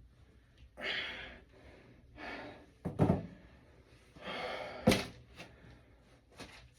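Two loud thuds about two seconds apart, among three breathy rushes of noise, each about half a second long.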